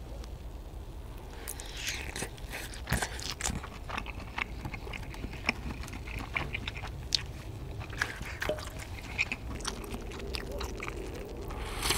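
Close-up mouth sounds of eating fish cake: biting and chewing with many small wet clicks. In the last second, a slurp of hot broth from a bowl.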